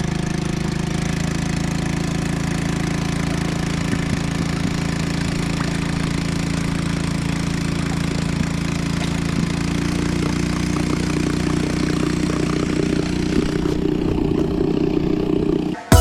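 Honda outboard motor running steadily at a constant speed while towing a kayak, until it cuts off suddenly near the end.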